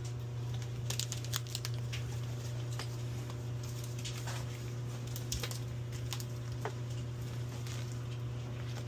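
A pump motor hums steadily while pumping out a sewage pit, with scattered light patters and clicks over it.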